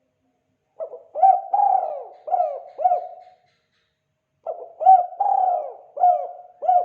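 Spotted dove (tekukur) cooing, the call type known to keepers as "kuk 2": two phrases of about five coos each, separated by a pause of about a second.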